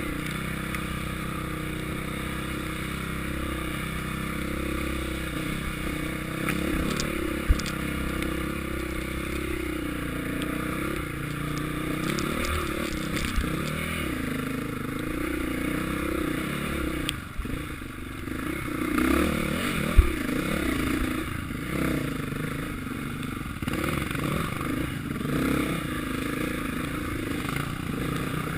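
Motocross dirt bike engines running and revving, their pitch rising and falling continuously. A few sharp knocks, the loudest about 20 seconds in.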